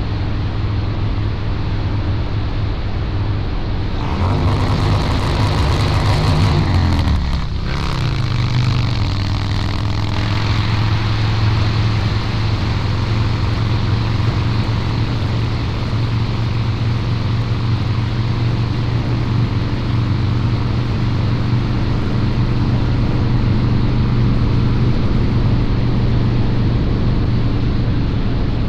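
Harley-Davidson Low Rider's 129 cubic inch V-twin running through a Two Brothers Racing exhaust on the move. It grows louder about four seconds in, its pitch falls away around seven seconds in, and then it settles into a steady cruise.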